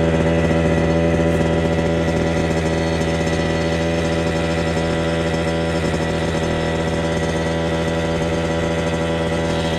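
2002 Kawasaki KX 65's single-cylinder two-stroke engine running steadily at one constant speed, without revving.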